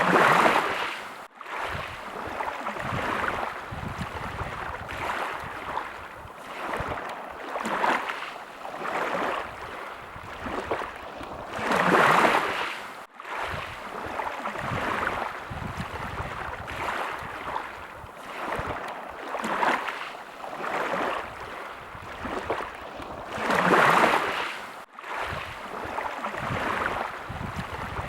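Small sea waves lapping and washing in, in gentle swells every second or two, with a bigger wave breaking at the start, about twelve seconds in and about twenty-four seconds in.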